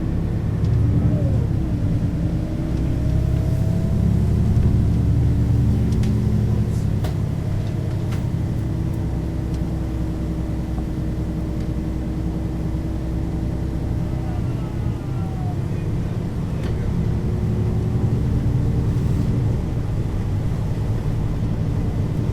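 Mercedes-Benz O 530 G Citaro articulated bus driving along, its diesel engine giving a steady low drone with faint whining tones above it that drift slightly in pitch.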